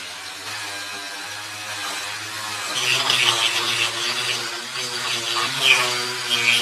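Hand-pumped dynamo pocket light whirring as its gear train and generator spin, getting louder about three seconds in, with a short rhythmic pulse from each squeeze of the lever near the end.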